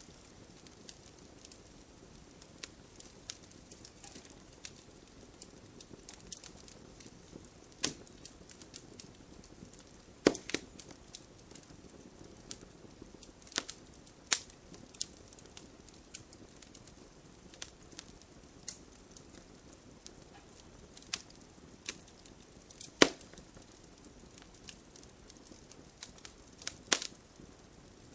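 Wood fire crackling: irregular sharp pops and snaps, a few much louder than the rest, over a faint steady hiss of light rain.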